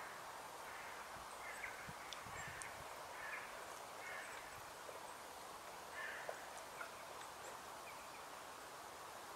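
Faint woodland ambience: a steady low hiss with scattered short, distant bird calls and a few faint knocks.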